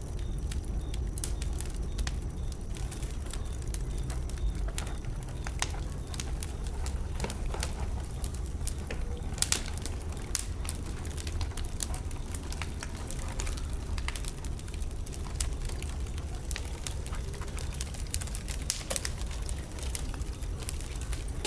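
Wood bonfire crackling: irregular sharp pops and snaps of burning wood, a few louder ones about halfway through, over a steady low rumble.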